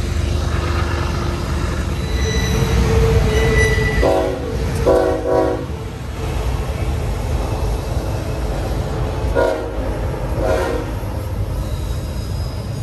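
Freight train rolling past with a steady low rumble, its wheels giving a faint high squeal on the tight curve. A locomotive horn sounds a chord twice about four seconds in, then twice more, shorter and fainter, around nine and ten seconds in.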